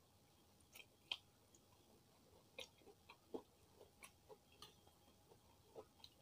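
Faint chewing and wet mouth sounds of eating soft chicken porridge, with a few light clicks of a metal spoon against the ceramic bowl.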